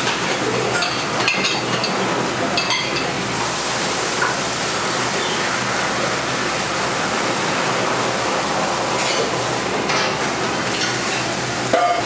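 Steady eatery background noise with a few sharp clinks of dishes and utensils, one about a second in, another near three seconds, and two more near the end.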